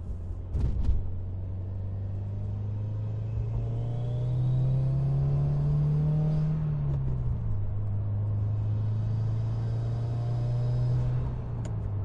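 2019 Subaru WRX's turbocharged FA20DIT flat-four, heard from inside the cabin through a Cobb Big SF intake and Invidia R400 exhaust, pulling with its note climbing steadily for about six seconds. The note falls about seven seconds in, holds steady, then eases down near the end. A few knocks sound about a second in.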